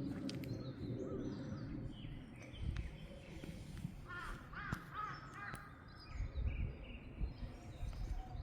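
A crow gives a quick run of caws about halfway through, over faint chirping of small birds and the soft thuds of footsteps on a forest path.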